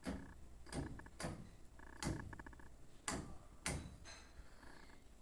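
Electrical contactor wired into a light fitting, snapping in and out as the light is switched on and off: about six sharp clacks over a few seconds, with a short buzz between two of them.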